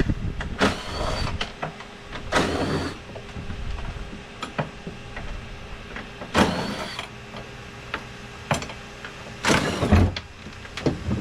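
Power ratchet driving 10 mm nuts and bolts off a personal watercraft, in four short bursts, each a whine that rises and then holds, with small metal clicks between them.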